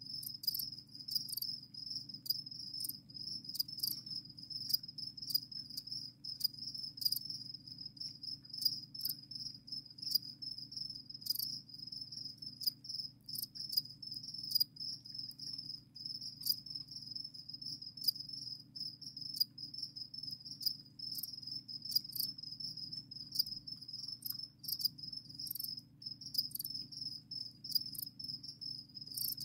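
Crickets chirping without pause, a high pulsing trill with frequent sharper chirps over it, above a steady low hum.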